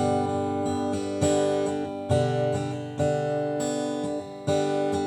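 Acoustic guitar strummed between vocal lines, a new chord struck about once a second and left to ring.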